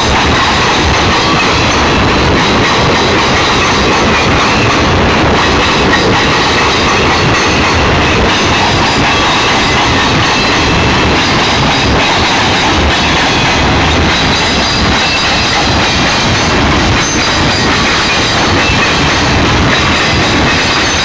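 Union Pacific freight cars rolling steadily past, their wheels clacking over the rail joints, with a thin steady squeal from the wheels on the rails.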